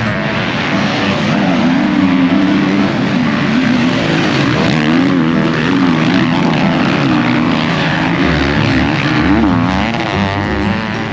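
Motocross bike engine revving up and down over and over as it is ridden hard round the track.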